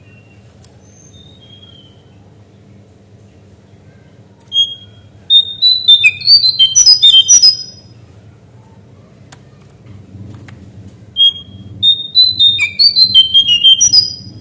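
A cingcoang coklat (jongkangan) songbird singing two loud bursts of quick, high whistled notes that jump up and down in pitch, each about three seconds long. A faint low hum runs underneath.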